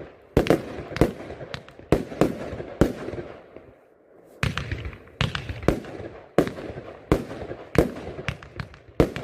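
Mystic Zone firework compound cake firing: a quick series of sharp bangs, about two a second, each with a trailing hiss. The shots pause for about a second near the middle, then the series starts again.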